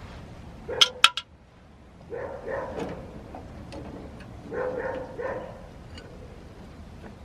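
Two sharp metallic clicks about a second in, from work on the engine's valve gear. After them comes a dog barking in the distance in two short bursts of several barks each.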